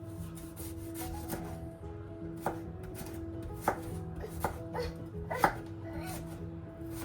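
Knife cutting food on a cutting board: about six separate strokes at uneven intervals, the sharpest about five and a half seconds in.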